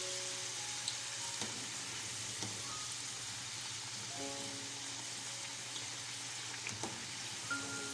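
Potato slices frying in hot oil: a steady sizzle with a few sharp clicks and pops. Soft background music with mallet-like notes plays along.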